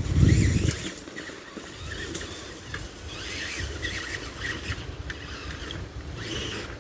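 Tamiya TXT-2 RC monster truck driving over rough ground, its motor and drivetrain whining in short squeaky spurts, with a low thump at the start.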